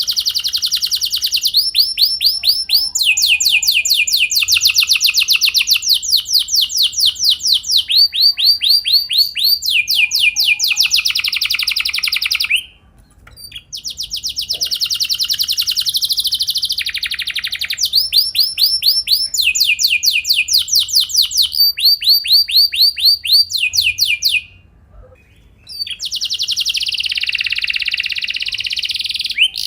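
Domestic canary singing long rolling phrases: rapid trills of repeated notes that switch to a new trill every second or two. The song breaks off briefly twice, once a little before halfway through and once near the end.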